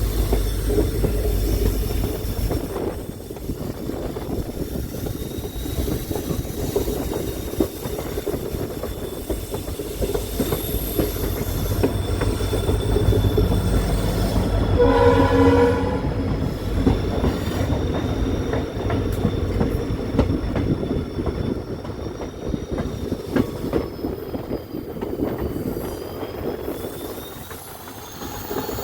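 Passenger train running along the track with a steady rumble and a thin, high wheel squeal that wavers in pitch. Near the middle the train horn sounds once for about a second.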